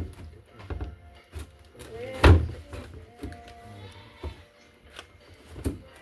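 Three heavy thuds, the loudest a little over two seconds in, with a few lighter knocks between them, over background music.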